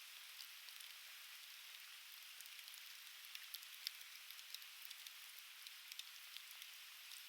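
Conifer firewood burning in an open fire pit, crackling with scattered sharp pops over a faint steady hiss; one louder pop about four seconds in.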